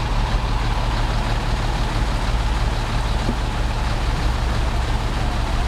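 A motor vehicle's engine running steadily, low-pitched and unbroken.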